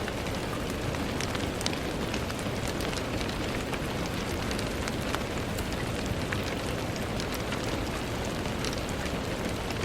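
Steady rain falling, an even hiss with many scattered small drop ticks against a window.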